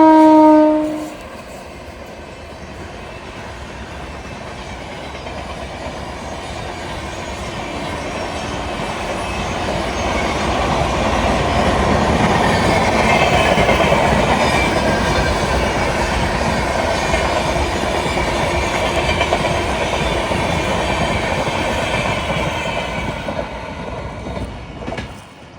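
Indian Railways locomotive horn, a chord of several tones that falls slightly in pitch, cuts off about a second in. Then the rumble and rail noise of a train passing, building to its loudest around halfway through and fading near the end.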